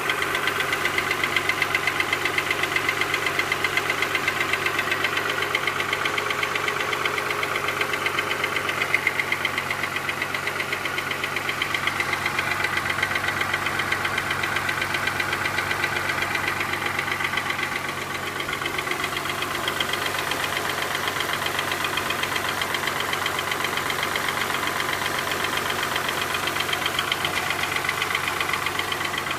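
2006 Suzuki Verona's 2.5-litre inline-six engine idling steadily, with a fast, even ticking running through its sound.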